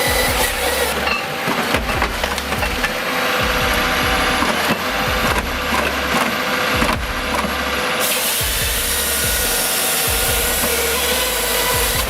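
A machine sawing through wood, with an engine running underneath; the sound changes abruptly about a second in and again around eight seconds.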